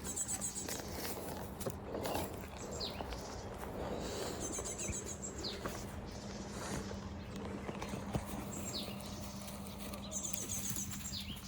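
Birds calling outdoors, a short high phrase repeating every few seconds, over light rustling and a steady low hum.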